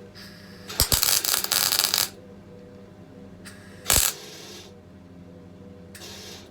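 MIG welder laying a tack weld: the arc crackles loudly for about a second, then one short sharp crack of a brief arc strike a few seconds later, over a steady low hum.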